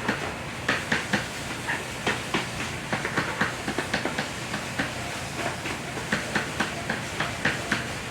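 Stiff scrub brush worked back and forth over soapy, wet car carpet: short scraping strokes, about three a second and unevenly spaced, over a steady hiss.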